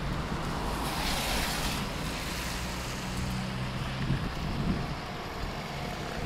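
Road traffic at an intersection: a steady low engine hum from vehicles, with a louder rush of passing-car noise about a second in.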